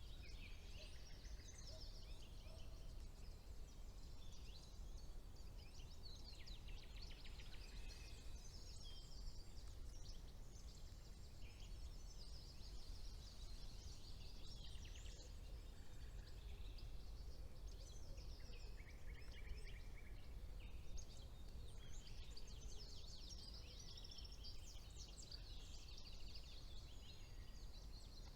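Chorus of several songbirds singing at once: overlapping trills, rapid runs of repeated notes and chirps, with a low steady rumble beneath.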